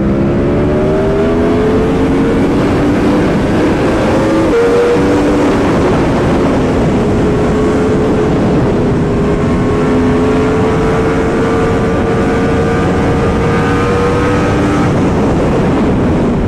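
Yamaha R1M's crossplane inline-four engine running under way through an aftermarket titanium exhaust. The engine note slowly shifts in pitch, with a brief break and step about four and a half seconds in.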